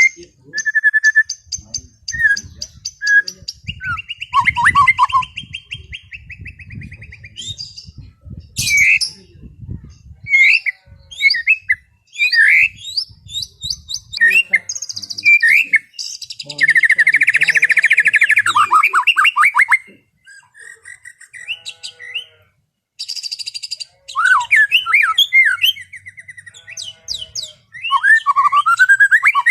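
White-rumped shama singing a long, varied song of clear whistles, fast trills and rising and falling phrases, broken by short pauses.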